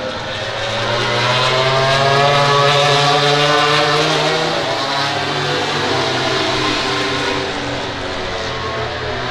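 MotoGP racing motorcycle engine on track, a continuous engine note that rises in pitch and loudness over the first few seconds, then slowly falls in pitch.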